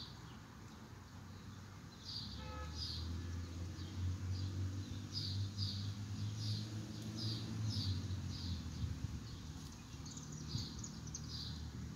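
A bird chirping over and over, short high chirps about once or twice a second. Underneath, a low steady rumble comes in about two seconds in and fades near the end.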